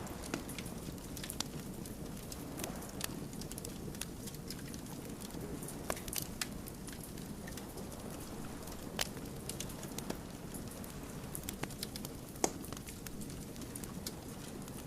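Wood campfire crackling: a steady low rush of burning logs with sharp pops scattered irregularly through it, the loudest a little past the middle.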